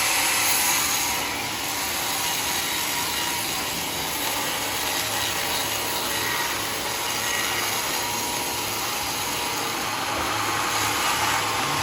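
Sawmill saw running steadily through mahogany wood, a continuous loud mechanical noise that dips slightly about a second in.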